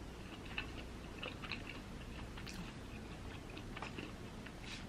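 Faint chewing of a Korean mozzarella corn dog: soft, scattered mouth clicks and small crunches.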